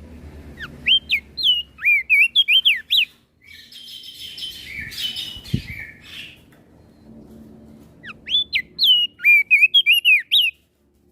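Crested darkeye (opior jambul) singing: two runs of quick, sweeping whistled notes, with a harsher chattering phrase between them.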